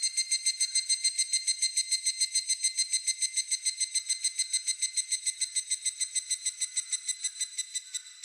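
Higurashi (evening cicada) calling: a long run of rapid, ringing pulses, several a second, that is loudest about a second in, slowly fades and stops near the end.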